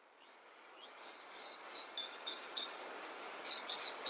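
A small bird chirping, a quick series of short high notes, over a steady outdoor hiss that fades in from near silence.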